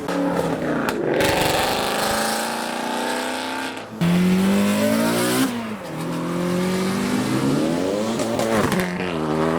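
Modified cars accelerating hard away one after another, engine revs climbing repeatedly as they pull through the gears, with rough exhaust noise. A louder car cuts in suddenly about four seconds in, revs up and falls away after a second and a half.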